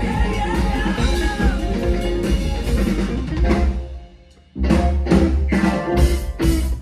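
Live rock band playing with the drum kit up front. About four seconds in the music drops out almost completely for about half a second, then the band comes back in with a run of sharp, accented hits.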